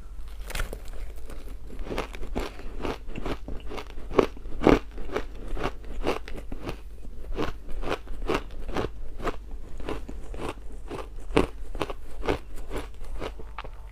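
Ice being bitten and chewed close to the microphone: a steady run of sharp, crunchy cracks, about two to three a second, with one louder crunch about five seconds in.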